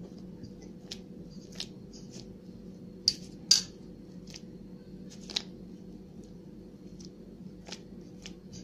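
Fingers poking holes into soft, floured yeast dough in a baking tin, making a string of small, irregular sticky clicks and smacks. A steady low hum runs underneath.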